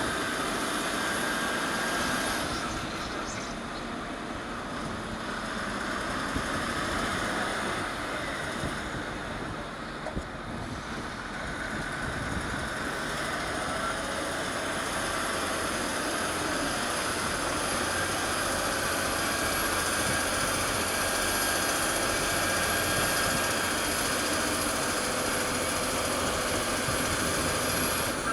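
Caterpillar D6R bulldozer's diesel engine running under load as it works. The engine drops off for several seconds a few seconds in, then builds again and holds louder through the second half.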